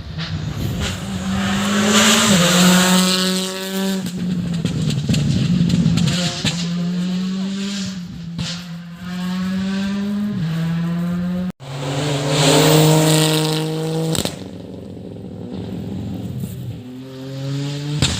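Rally cars at full throttle: the engine note climbs and drops back sharply at each gear change. The sound cuts abruptly to another car about two thirds of the way through.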